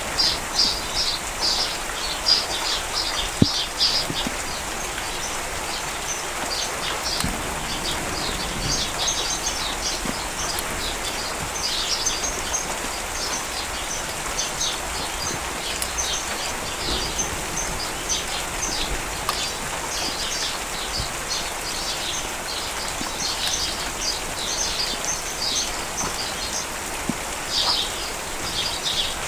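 Steady rain falling, with birds chirping over it in quick clusters of short, high notes.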